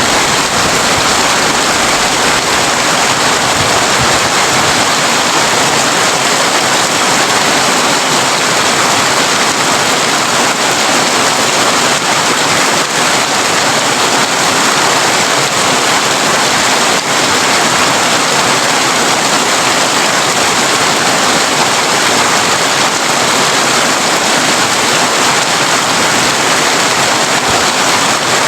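Heavy rain drumming steadily on a corrugated tin roof, a dense, even hiss of drops.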